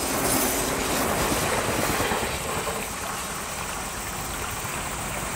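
583 series electric train running past on the rails: a broad rush of wheel-and-rail noise that swells in at the start, is loudest in the first couple of seconds, then settles to a steady rumble.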